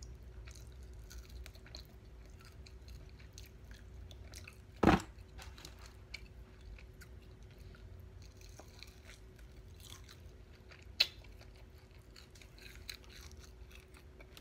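Close chewing and biting on sauced chicken wings, with many small wet clicks of mouth and teeth. A loud thump about five seconds in and a sharp click about eleven seconds in stand out, over a faint steady hum.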